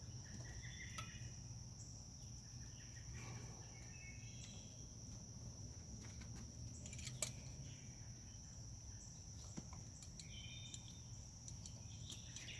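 Faint clicks and light knocks of plastic engine-bay parts and clips being handled during a top-end teardown, with one sharper click about seven seconds in. A steady high-pitched tone and a low hum sit underneath throughout.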